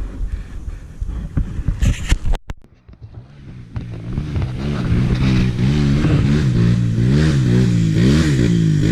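Clattering knocks, then a dirt bike engine comes up about four seconds in and is revved up and down repeatedly.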